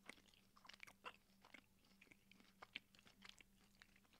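Faint close-miked chewing of sour, sugar-coated gummy candies (cola Sour Patch Kids), heard as small irregular mouth clicks.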